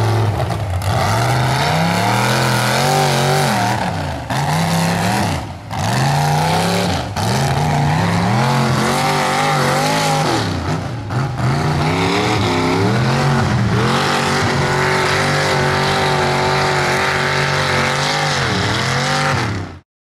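Mega mud truck engine revving hard again and again, its pitch climbing and dropping every couple of seconds, then held high for several seconds near the end.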